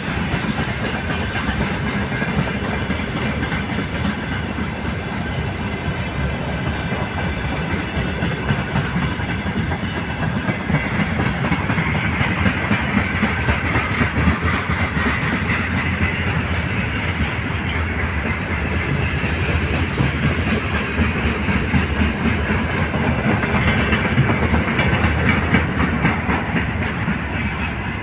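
Freight train rolling past, its wagon wheels clattering steadily over the rail joints.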